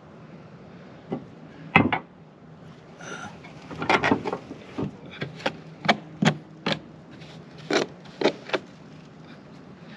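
A string of sharp, irregularly spaced knocks and clacks, roughly fifteen over several seconds, the loudest a pair near the start.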